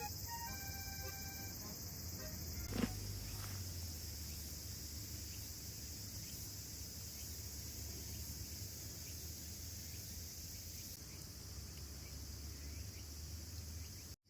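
A chorus of cicadas buzzing steadily and high-pitched in summer heat. A single short knock is heard about three seconds in.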